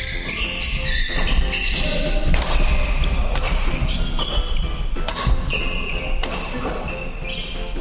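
Badminton doubles rally on a hall floor: court shoes squeak in many short, high-pitched chirps, broken by sharp racquet hits on the shuttlecock.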